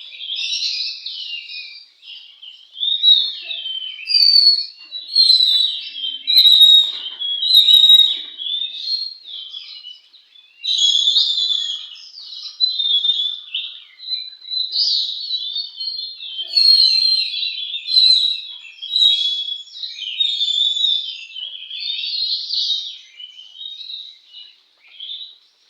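Oriental magpie-robin (kacer) singing a long, varied song of rapid whistled and chattering phrases, with short breaks between runs.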